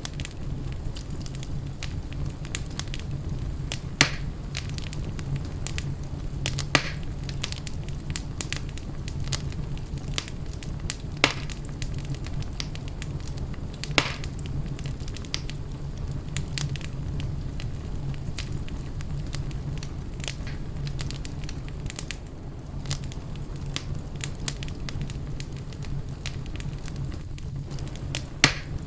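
Fire burning in a fireplace: steady crackling over a low rumble, with five sharper pops standing out, about 4, 7, 11 and 14 seconds in and again near the end.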